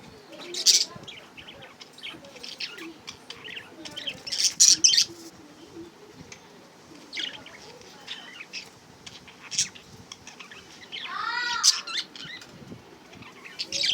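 Budgerigars chirping and chattering in short, high-pitched bursts, with one longer call that rises and falls in pitch about eleven seconds in.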